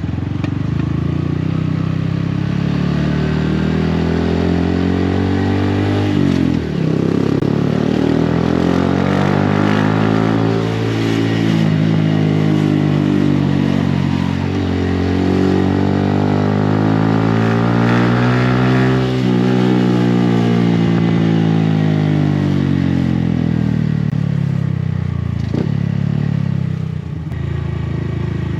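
Honda Grom's 125 cc single-cylinder four-stroke engine through a Yoshimura exhaust, under way: revs climb and fall several times as it accelerates and slows, with sudden dips at gear changes about six and nineteen seconds in.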